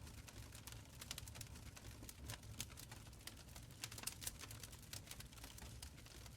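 Wood fire burning in a stone fireplace, crackling softly with many small irregular pops and snaps over a low steady rumble.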